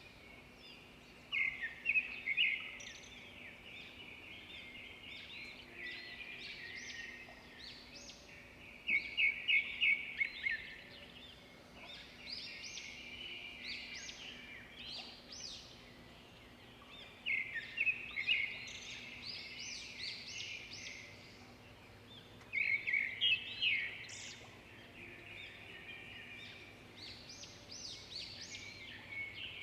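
Birdsong: a bird sings a quick run of rapid notes every five to eight seconds, with fainter chirps between the phrases.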